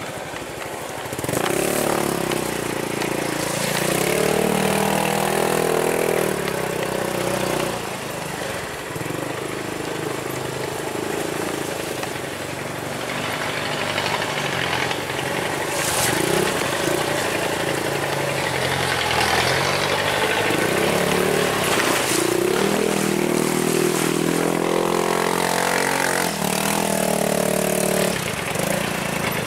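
Truck engine labouring under load, revving up and falling back in long surges as it works the vehicle over a rough, muddy track.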